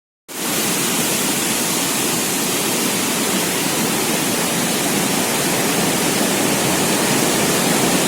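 Steady, loud rushing of water, with no change in level. It starts abruptly just after the beginning and cuts off suddenly at the end.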